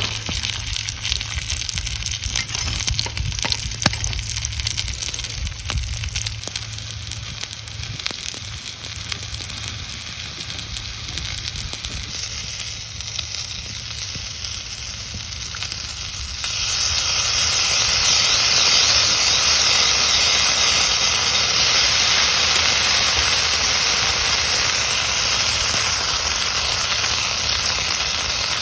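Food frying and sizzling in a hot pan, with scattered light clicks in the first half. About sixteen seconds in, the sizzle suddenly gets louder and stays that way.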